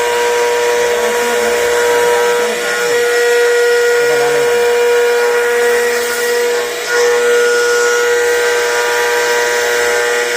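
CNC router spindle running at steady speed with a constant high whine and overtones, with faint voices underneath in the first few seconds.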